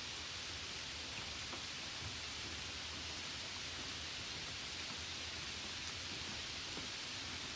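Steady water noise: a continuous even hiss of rain on the trees or the nearby river, with a few faint ticks.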